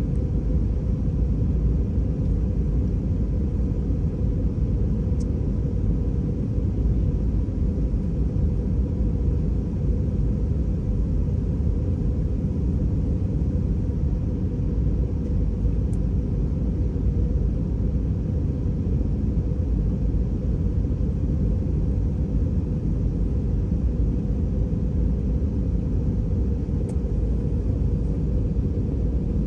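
Airbus A320 airliner's steady low rumble, unchanging throughout, with a faint steady hum above it.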